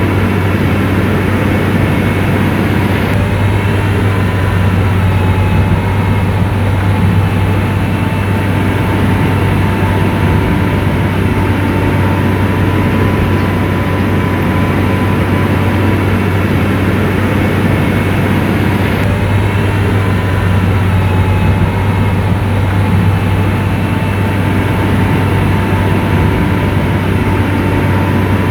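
Diesel engine of an SDLG motor grader running steadily, a deep even drone with no change in pitch.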